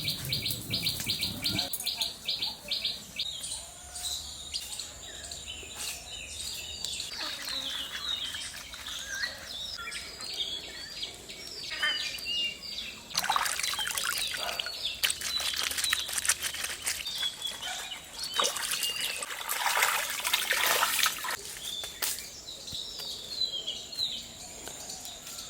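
Birds chirping and calling over and over, with a fast trill near the start. Several loud, noisy stretches of work sounds come in about halfway through and again near the end.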